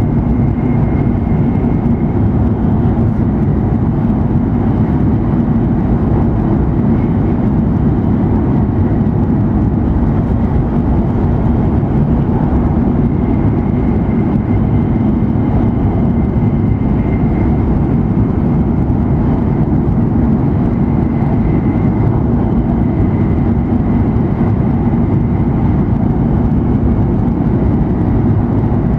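Cabin noise inside an E7 series Shinkansen running at high speed: a loud, steady rumble and rush, with a faint high tone that fades in and out.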